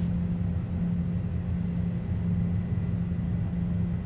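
Steady in-flight cockpit noise of a Gulfstream G-IV business jet: a low rumble with a constant low hum.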